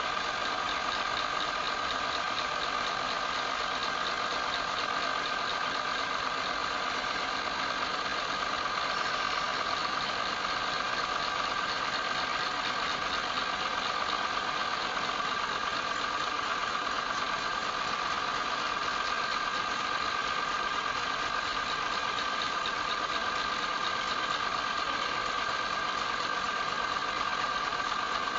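Wood lathe running steadily, its motor giving a constant whine over a steady mechanical hiss.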